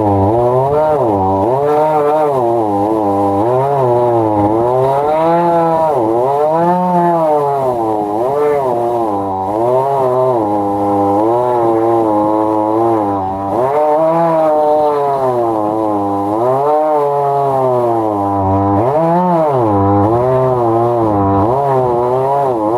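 Gas chainsaw running at high revs while milling a log, its engine pitch rising and falling every second or two as the cutting load changes.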